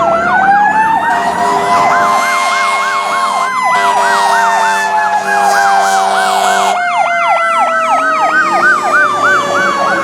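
Fire apparatus sirens: a Federal Signal Q mechanical siren winding up and then slowly coasting down, over an electronic siren yelping about three to four times a second. A steady horn blast sounds from about one to seven seconds in.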